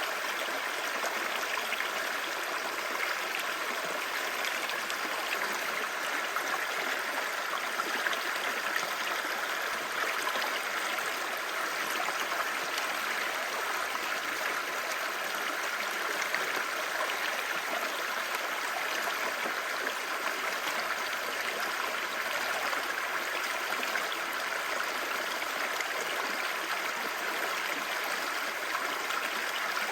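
A clear stream babbling: a steady, even rush and gurgle of running water with no breaks.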